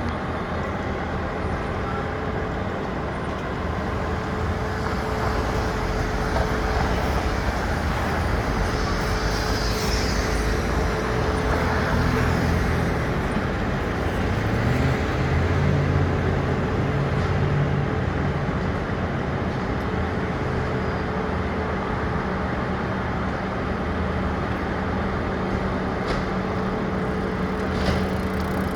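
Diesel engine of a large fire truck running amid street traffic noise. Its engine note swells and rises about halfway through, then settles.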